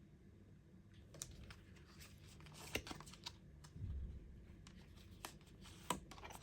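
Tarot cards being handled, heard faintly: scattered sharp clicks and rustling of card stock, with a soft low thump about four seconds in.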